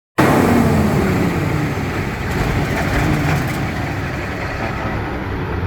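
Truck engine running steadily, with a dense, even mechanical noise.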